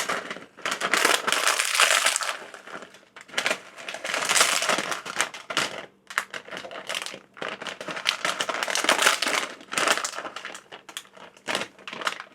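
A block of dry instant ramen noodles being crushed by hand inside its plastic packet: crunching and snapping with packet crinkle, in several bursts a second or two long with short pauses between them.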